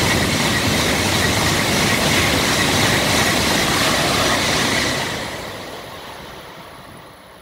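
N700-series Shinkansen running through the station at speed: a loud, steady rush of air and rolling wheels while the cars go by. It fades away about five seconds in as the tail end recedes.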